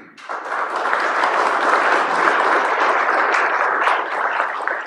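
Applause from the senators and guests in a legislative chamber, starting at once, holding steady, then starting to die away near the end.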